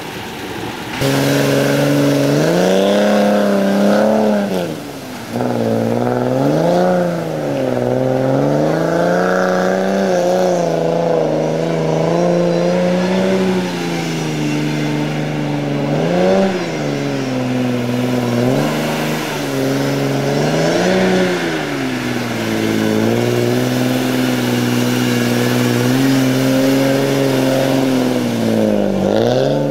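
Off-road 4x4's engine working hard as it drives through water and reeds, its revs rising and falling over and over with the throttle, including a brief drop about five seconds in.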